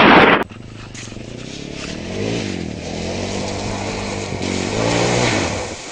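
Off-road vehicle engine revving, its pitch rising and falling several times. It follows a short burst of loud wind noise that cuts off about half a second in.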